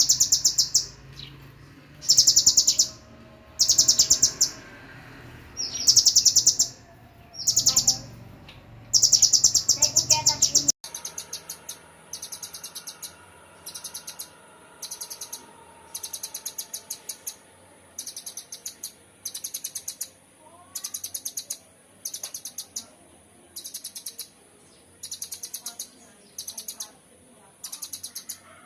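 Songbird song played as a masteran recording: rapid high trills of fast repeated notes, each about a second long, coming about every two seconds. About a third of the way through it cuts suddenly to another recording of shorter, quieter trills in quicker succession.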